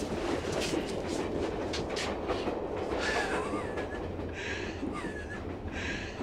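Inside a moving passenger train carriage: the steady rumble of the train running, with the clatter of wheels over rail joints.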